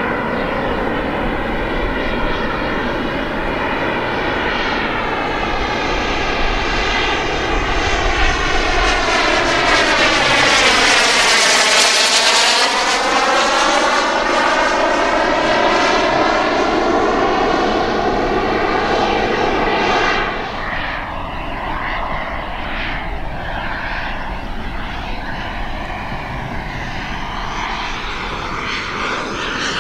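Turbine-powered RC model jet flying past: the engine's whooshing rush swells to its loudest about halfway through with a swooping change in tone as it passes overhead. It falls away after about two-thirds of the way in.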